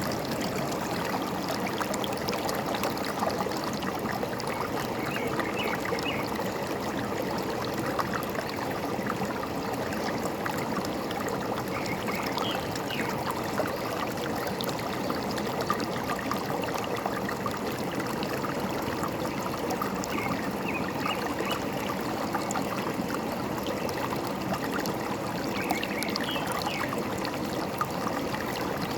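Forest stream babbling and trickling steadily, with a few faint, short, high bird chirps now and then.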